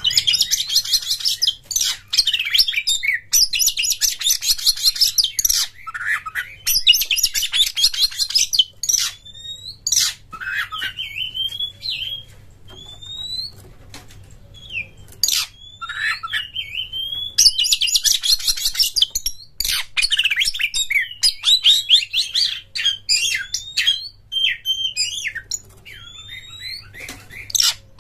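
Oriental magpie-robin (kacer) singing a fast, varied song: dense, rapid, high chattering bursts alternating with short whistled glides and upslurs.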